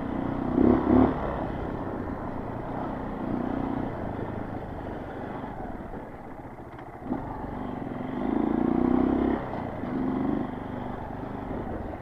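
Honda CRF230 dirt bike's single-cylinder four-stroke engine pulling along a trail, the throttle opened in short bursts about half a second in and again near the middle, with a longer pull around two-thirds of the way through and lighter running in between.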